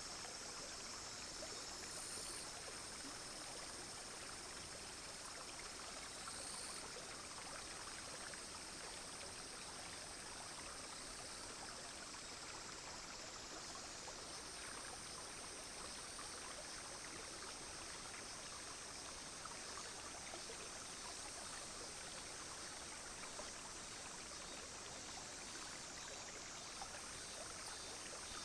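A clear, shallow brook flowing and trickling steadily. Over it, cicadas and other insects keep up a steady high-pitched shrilling whose pitch shifts slightly now and then.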